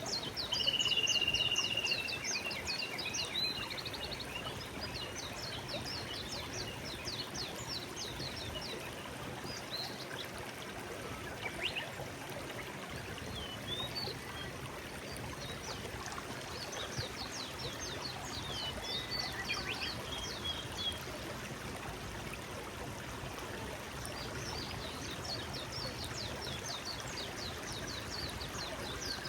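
Forest stream flowing steadily, with small songbirds singing over it in quick series of short, high descending notes. About a second in a bird holds one clear whistled note, the loudest sound here; further song comes again near the middle and near the end.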